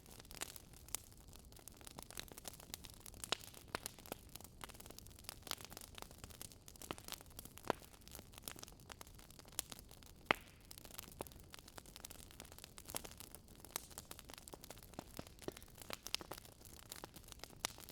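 Wood fire crackling quietly, with irregular sharp pops and snaps several times a second over a faint hiss.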